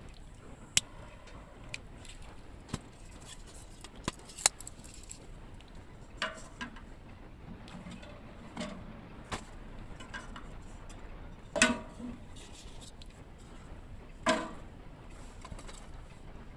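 Scattered sharp clicks and light knocks, irregularly spaced, with two louder knocks about two-thirds of the way through.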